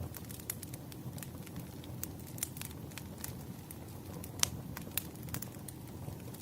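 Wood fire crackling: a steady low rush of flames with irregular sharp pops and snaps, the loudest pop about four and a half seconds in.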